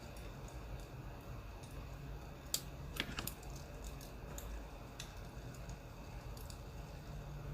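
Burning firewood crackling: irregular sharp pops and snaps, the loudest a little past two and a half and three seconds in, over a low steady hum.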